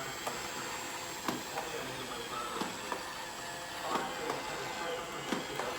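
iRobot Roomba 692 robot vacuum running steadily with a high whine, with irregular sharp clicks and knocks over it.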